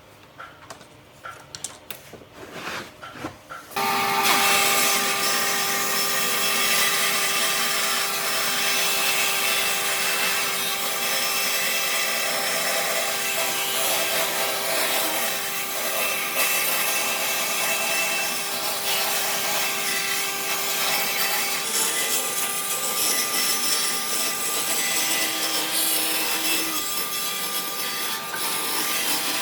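An electric power tool starts up about four seconds in and runs steadily against wood, a constant motor whine under the noise of the wood being cut or abraded. It follows a few light knocks.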